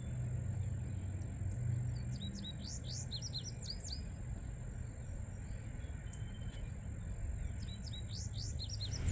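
A songbird singing the same short phrase of quick chirps twice, about two and a half seconds in and again near the end. Under it runs a low outdoor rumble and a steady thin high whine.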